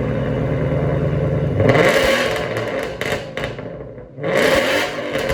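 Ford Mustang GT's 5.0-litre V8 through a Ford Performance Borla axle-back exhaust with an X-pipe, running at a cold-start idle and then revved twice, about two seconds in and again near the end.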